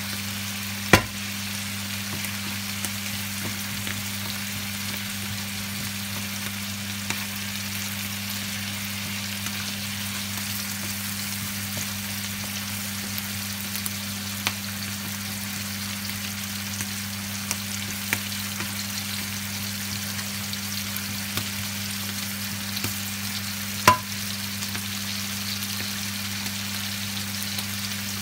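Diced chicken breast, sliced mushrooms and chopped garlic sizzling steadily in oil in a frying pan, with two sharp knocks about a second in and near the end.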